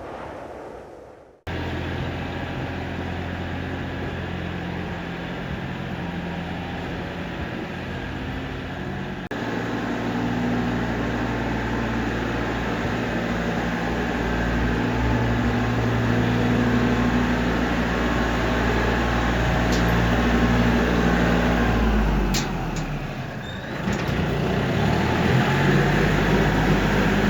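Tractor engine running steadily, its note stepping up about a third of the way in, then dipping and climbing back again near the end.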